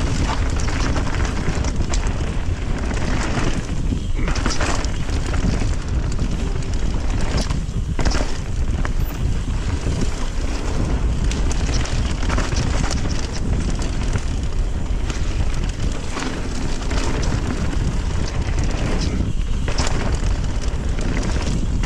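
Steady wind noise buffeting the microphone over the rumble of a mountain bike on a trail, with scattered sharp clicks and rattles.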